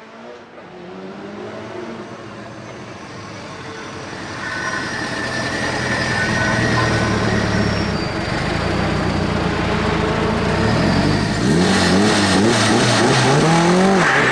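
A Mitsubishi Evo 8 RS hillclimb car's Eggenberger 2-litre turbocharged four-cylinder engine running hard and growing steadily louder as it approaches. In the last few seconds the revs rise and fall quickly over and over, with crackling.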